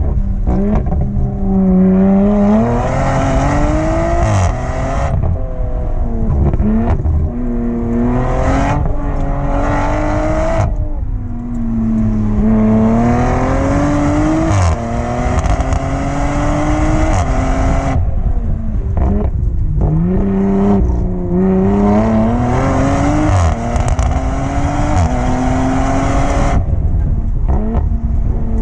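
Race-tuned Audi TT engine under hard acceleration, its note climbing and dropping several times as the revs build and fall between corners, with brief lifts off the throttle.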